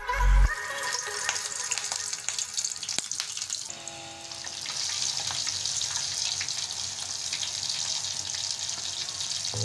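Breaded chicken drumsticks deep-frying in hot oil: a steady sizzle that comes in about four seconds in. Background music with a beat ends in the first moment.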